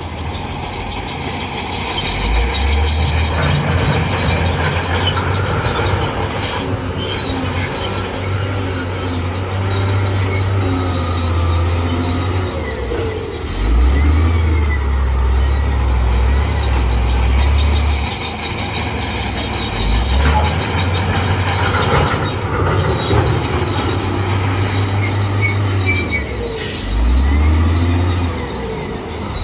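Crawler bulldozer working: its diesel engine drones and swells under load in repeated pushes, with high metallic squealing and screeching from the steel tracks.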